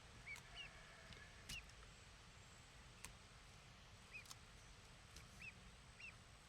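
Young waterfowl peeping faintly: about six short, high chirps spread out, with a few light clicks.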